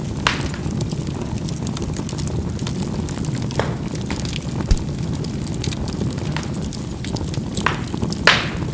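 Charcoal burning in a fireplace with a steady low rush, and scattered sharp pops as the coals crackle and burst, about six in all. The loudest pop comes near the end.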